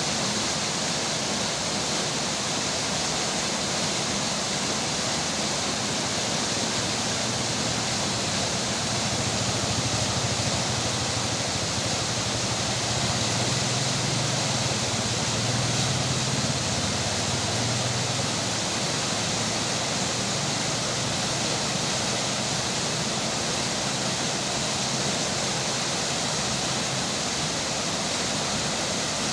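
Steady rush of a flowing river with falling rain. A faint low hum swells in the middle and fades again.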